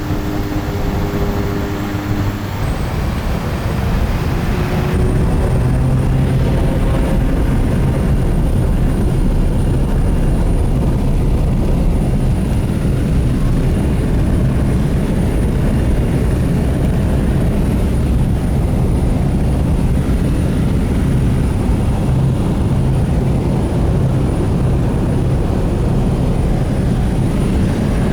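Propeller airplane's engine and propeller drone from inside the cabin, with a faint high whine. Power builds over the first few seconds, then holds steady.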